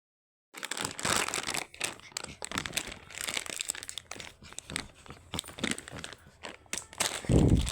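Crinkling and tearing of a crinkly material as a Shih Tzu puppy plays with it, in quick irregular rustles, with a short low thud near the end.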